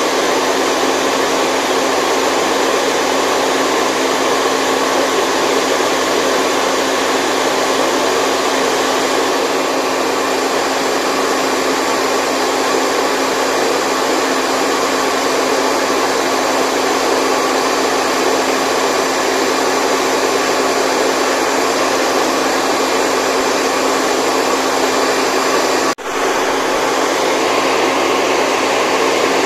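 Continuous white noise for lulling a baby to sleep: a steady, even rushing hiss with a faint steady hum in it. It cuts out for an instant near the end and comes straight back.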